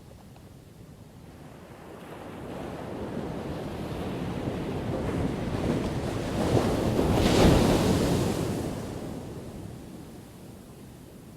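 Ocean waves: one wave builds over several seconds, crashes about seven seconds in, and washes back out to a low surf hiss.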